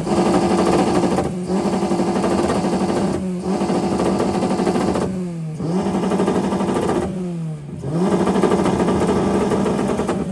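A car engine revved hard and held at high revs, with two quick lifts off the throttle, then twice the revs drop sharply and climb back up; near the end the revs fall away.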